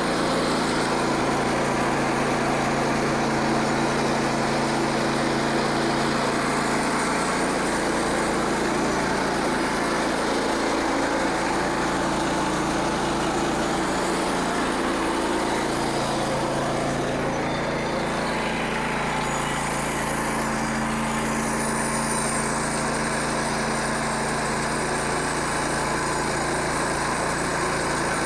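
Frontier OS27 portable bandsaw sawmill's small engine running steadily, its pitch dipping briefly and recovering about halfway through.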